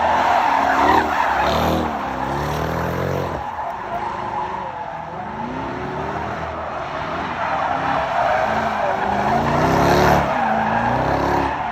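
A car sliding in a burnout: tyres squealing and skidding, while the engine revs rise and fall over and over.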